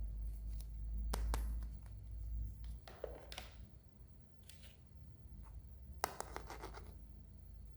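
Hands handling a toy and its plastic packaging: scattered sharp clicks, scratches and short crinkly rustles, the longest crinkling about six seconds in.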